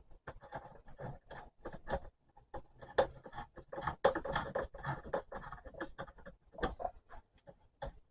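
Parts being handled and fitted by hand: irregular scraping, rubbing and small knocks.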